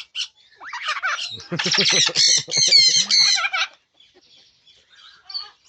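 Parrots in a mixed flock squawking and chattering: a loud burst of rapid, harsh calls over about three seconds, then a few faint calls.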